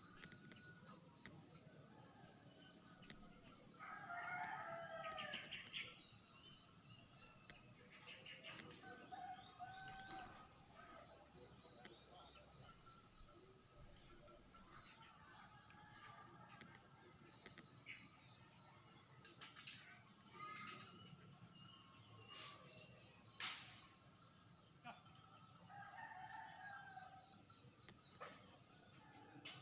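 A steady high insect drone with a regular pulsing chirp every couple of seconds, and a drawn-out bird call twice, about four seconds in and again near the end.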